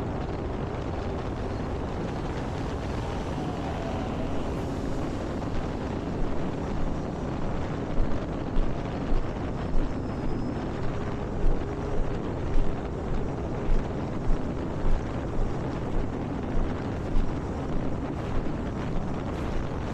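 Wind rumbling on the microphone over the faint drone of the E-Flite Air Tractor's electric motor and propeller flying overhead. From about eight seconds in, a soft thump repeats a little under twice a second.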